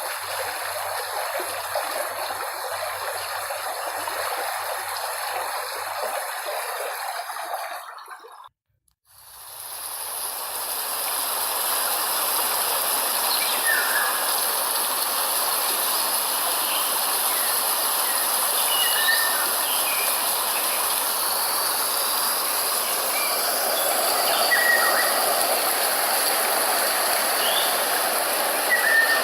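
Running stream water, fading out about eight seconds in. After a moment of silence a new outdoor ambience fades in: a steady high hiss with scattered short bird chirps.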